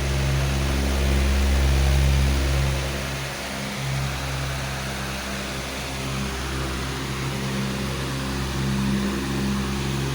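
Powerful electric fan running steadily: a deep motor hum with a few steady low tones under an even rush of moving air, the hum swelling and easing slightly.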